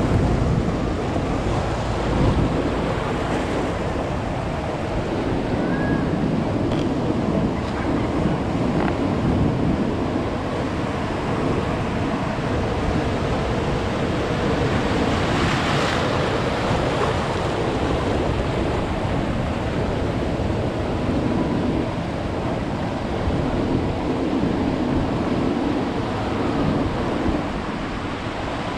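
Ocean surf: waves breaking and washing up the shore, with wind buffeting the microphone. One wave stands out, louder and hissier, about halfway through.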